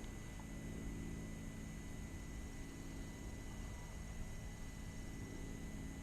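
Faint, steady low hum of a quadcopter drone's propellers in flight, with a thin high steady tone above it.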